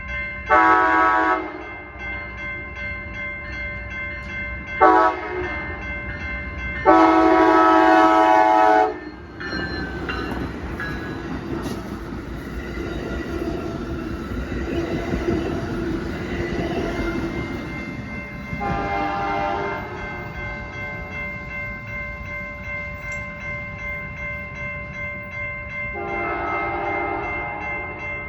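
Amtrak passenger locomotive horn sounding two short blasts and then a long one as the Pere Marquette approaches. The train then rumbles past on the rails, and the horn sounds twice more, once midway and once near the end.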